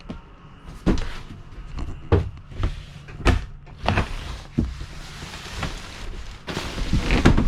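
Murphy bed being flipped down from a sofa in a travel trailer: a series of knocks and clunks about a second apart, then a longer, louder rubbing noise near the end.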